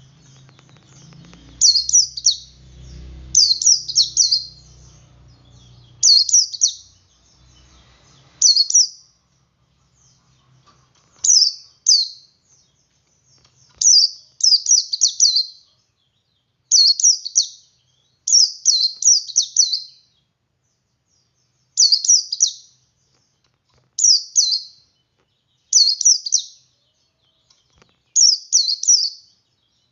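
Male white-eye (pleci) singing its ngalas song: short, high-pitched bursts of rapid twittering notes, repeated every one to three seconds.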